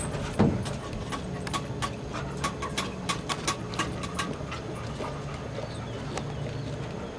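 A run of sharp, irregular knocks, about two or three a second, thinning out after about four seconds, over a low steady hum.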